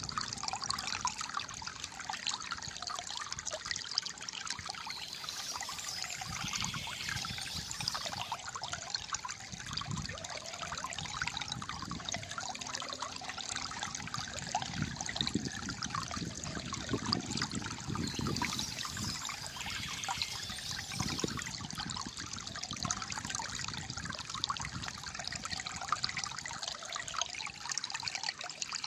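Shallow water flowing steadily over stones, trickling and gurgling with many small splashes.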